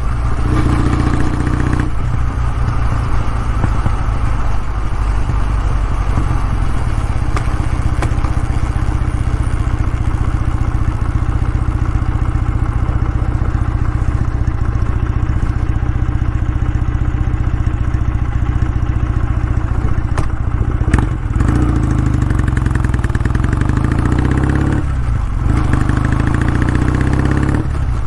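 Kawasaki W650's air-cooled parallel-twin engine and exhaust running at a steady pace, with a few short breaks in the note.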